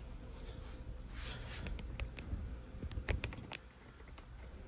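Plastic toilet fill valve parts being handled: a couple of soft rustles, then a quick run of light clicks and taps.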